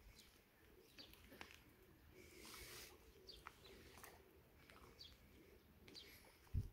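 Faint, short bird chirps repeated about every second, over near silence, with a low thump just before the end.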